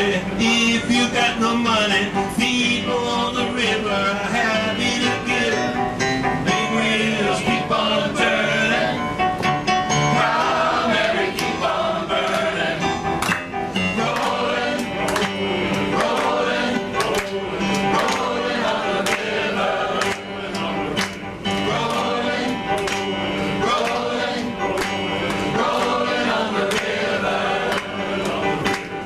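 Male choir singing with instrumental accompaniment.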